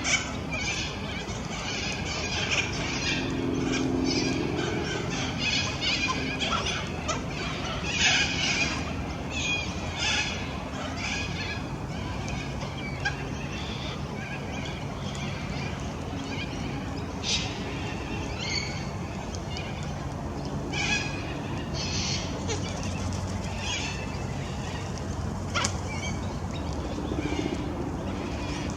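Sulphur-crested cockatoos giving harsh, raspy squawks, many in quick succession for the first ten seconds or so, then fewer and further apart.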